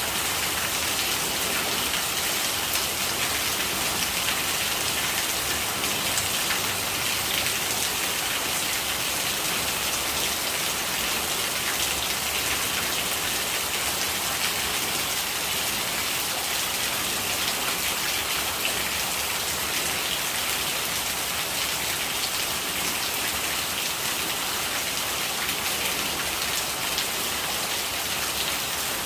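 Steady rain with rainwater gurgling: an even hiss of falling water dotted with fine ticks of drops, at a constant level.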